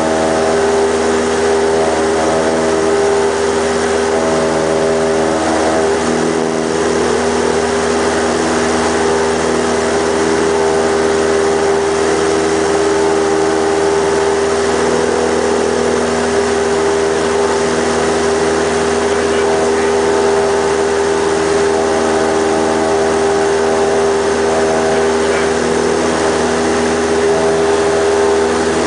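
Light aircraft's piston engine and propeller droning at steady high power during the takeoff climb, its pitch holding constant throughout.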